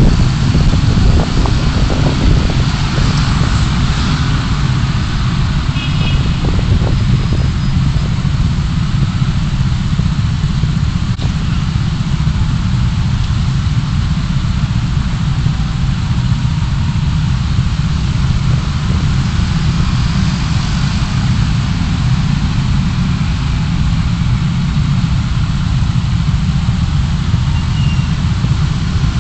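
Car on the move, heard through a dashcam: a steady low rumble of engine and road noise.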